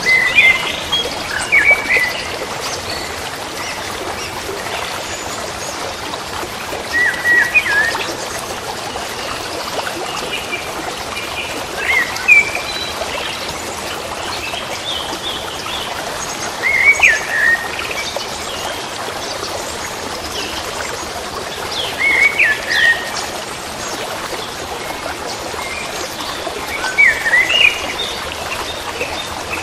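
Birds singing over steadily running water. One bird repeats a short chirping phrase about every five seconds, with fainter calls between.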